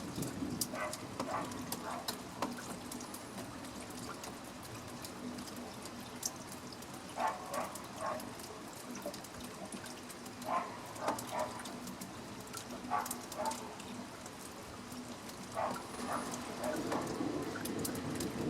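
Steady rain falling, with close drips and splashes. Every few seconds a distant short call sounds, two to four times in quick succession. A low rumble of thunder builds near the end.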